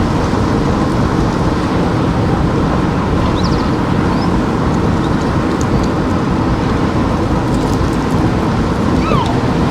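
Steady low rumble of a car driving: road, tyre and engine noise, with a few faint short high chirps in the middle and near the end.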